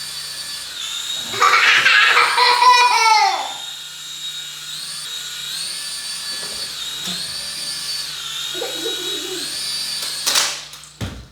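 Small battery toy helicopter's electric motor and rotor whining at a high pitch, the pitch swelling and easing every couple of seconds. A baby squeals and laughs about a second and a half in, and a few knocks come near the end.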